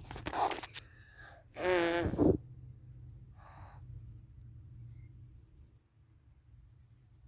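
A short vocal sound from a person, just under a second long with a wavering pitch, about two seconds in; a few faint brief noises follow.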